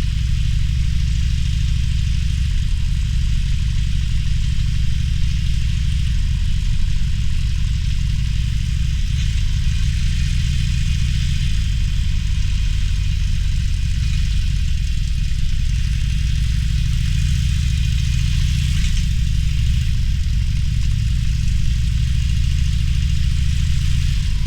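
Harley-Davidson Roadster's V-twin engine running steadily with a low, even beat, over a constant hiss of wind and road noise.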